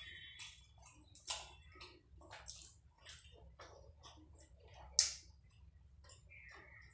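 Chewing rice and chicken curry, with wet mouth clicks and smacks and fingers squishing curry-soaked rice on a plate. One sharper, louder click comes about five seconds in.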